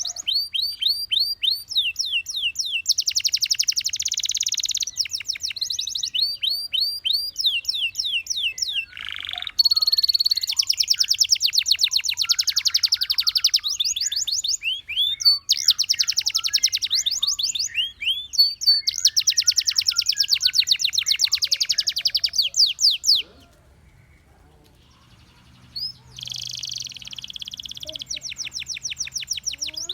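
Gloster canary singing: a long song of fast trills and rows of rapidly repeated, falling whistled notes. It breaks off for a couple of seconds late on, then resumes.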